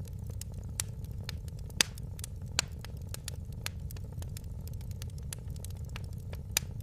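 Fire in a fireplace crackling: sharp pops and snaps at irregular intervals over a steady low rumble, the loudest snaps about two seconds in and again near the end.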